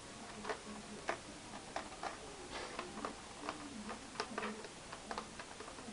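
Light, irregular clicks and taps of a small screwdriver and tiny screws against a laptop's plastic case as the screws are taken out and set aside, about two or three a second.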